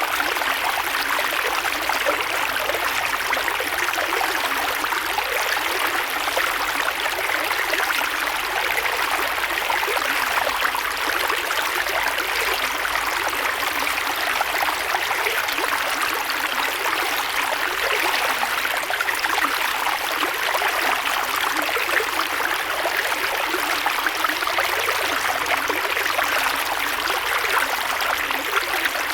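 A creek's water flowing and babbling steadily over stones, an even rushing with fine splashing detail and no pauses.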